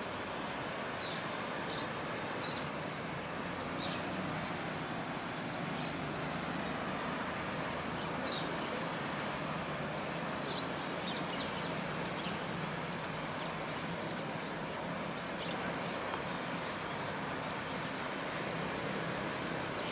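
Otters giving short, high-pitched squeaks in scattered little clusters over a steady rushing background noise.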